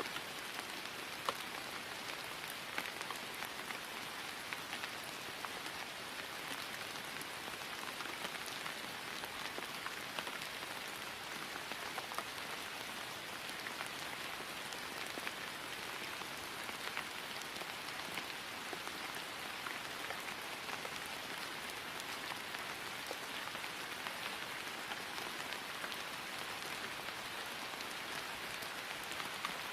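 Steady rain falling on grass: an even hiss with scattered individual drop patters.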